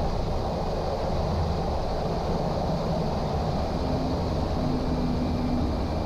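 Steady drone of a Cessna 208 Caravan's turboprop engine and propeller, heard inside the cockpit.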